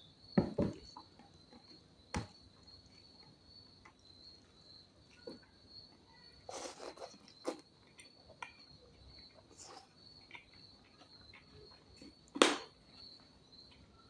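Close-up eating sounds: chewing and mouth noises with a few sharp clicks, the loudest about half a second in and another near the end. Under them runs a steady high chirring of insects.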